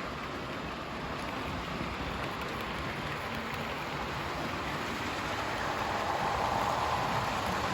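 Hornby 00 gauge model trains running on the layout: a steady rattling rumble of wheels on track and small motors, growing a little louder about six seconds in.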